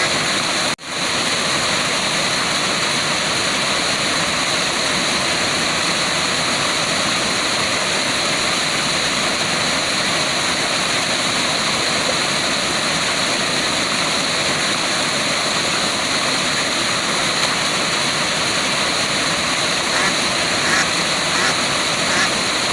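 Waterfall rushing in a steady, even roar of falling water. The sound cuts out for a split second about a second in, then resumes unchanged.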